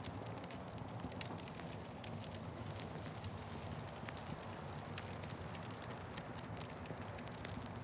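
Wood fire crackling steadily, with many small irregular snaps and pops over a low, even rush of flame.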